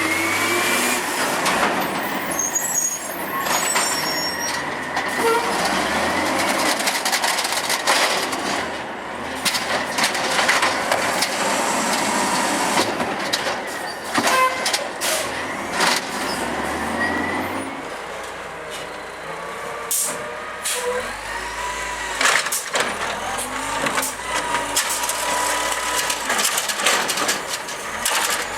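Automated side-loader garbage truck working its route: the engine runs and revs, whines rise and fall, and clanks and bangs sound throughout, with air brake hiss.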